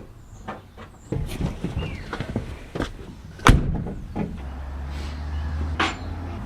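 Knocks, clicks and one loud clunk about three and a half seconds in, from hand work on the car during heater fan removal, with a low steady hum under the last two seconds.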